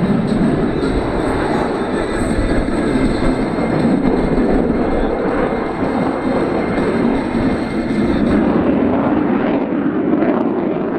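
Loud, steady jet noise from the F-22 Raptor's two F119 afterburning turbofan engines during a display pass, a dense rushing roar that holds at about the same level throughout.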